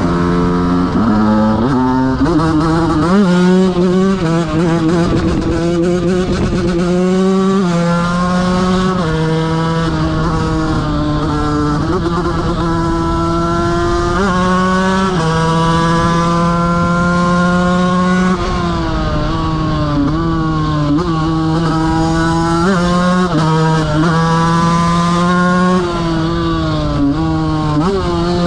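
KTM 125 motorcycle engine under hard acceleration, revving up through the gears: its pitch climbs again and again and drops back at each gear change.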